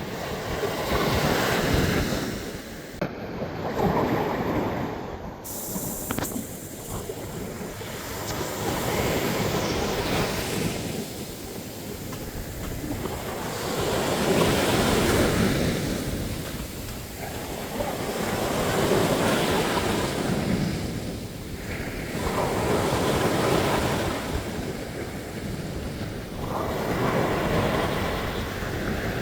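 Sea waves breaking on a beach, the surf swelling and falling away every four to five seconds.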